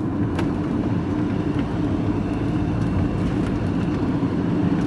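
Steady engine and road drone of a moving vehicle, heard from inside the cab.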